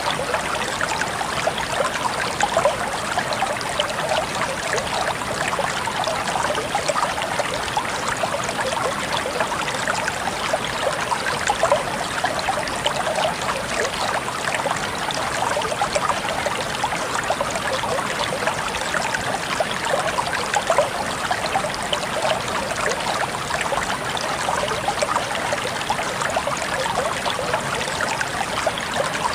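Babbling water flowing steadily over stones, a constant, even rush dense with small trickles and splashes.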